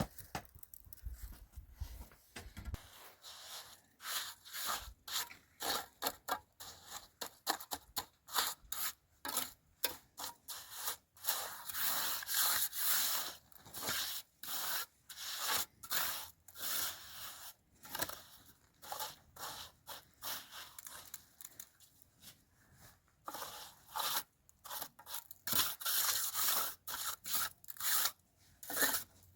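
Irregular scraping and rubbing strokes, many short ones in quick runs with brief gaps, busiest about halfway through and again near the end.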